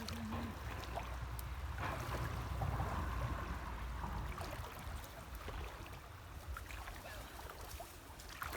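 Creek water swishing and trickling as people wade through it hauling a seine net, over a low steady rumble. The water noise swells from about two to four seconds in, with a few small splashes and clicks.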